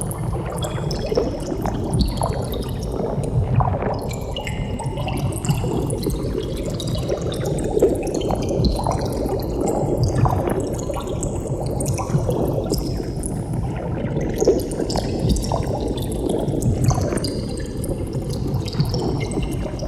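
Underwater bubbles streaming continuously: a dense, steady bubbling full of many small, quick pops.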